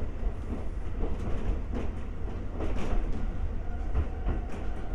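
Konan Railway 7000-series electric car (ex-Tokyu 7000) running, heard from inside the car: a steady low rumble of wheels on track, with repeated clacks as the wheels cross rail joints.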